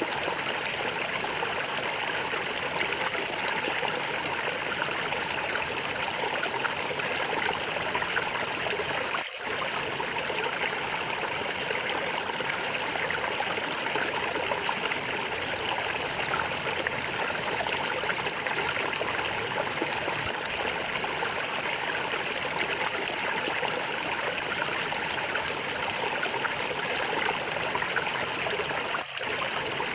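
Flowing water gurgling and trickling steadily, with two brief dips in level, one about nine seconds in and one near the end.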